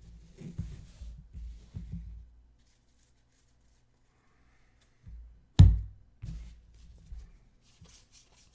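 A single sharp, loud thump about five and a half seconds in, set among faint low rustling and handling noise, with a couple of seconds of near quiet before it.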